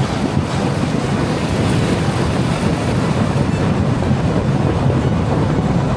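Boat motor running steadily at speed, mixed with wind buffeting the microphone and rushing water, as heard while being towed on a tube.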